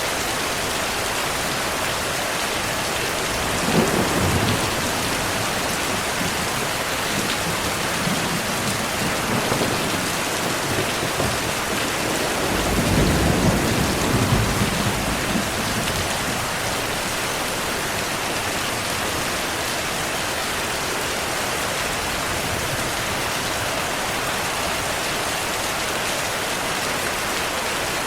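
Steady heavy rain with thunder: a short crack and rumble about four seconds in, quieter rolls around eight to ten seconds, and a longer, louder rumble from about twelve to fifteen seconds.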